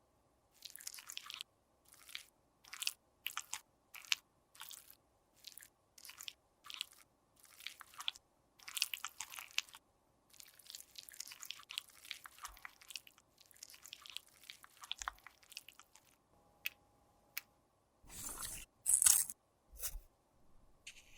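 Dry makeup being scraped and crushed with a tool in short crunchy strokes, roughly one a second, with a few louder strokes near the end.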